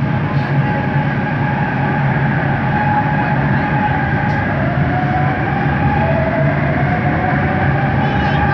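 Bombardier Innovia ART 200 metro train running, heard from inside the car: steady running noise under the whine of its linear induction motors, with one whine tone rising in pitch from about halfway through.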